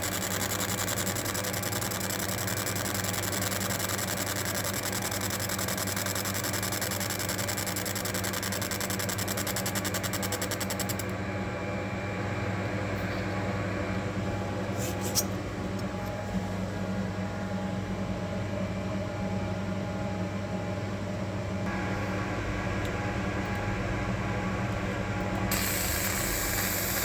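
Laser marking machine running steadily with a low machine hum while it engraves a pet collar. A high hiss drops away about eleven seconds in and comes back near the end.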